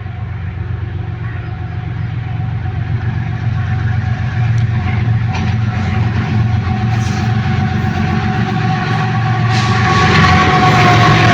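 Goods train running past: a steady low rumble that grows louder, with a steady high-pitched tone over it that is loudest near the end.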